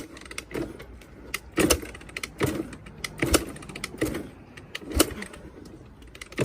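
Honda XR200R dirt bike being kick-started without catching: a sharp knock from the kick-start lever roughly every second over a low rumble.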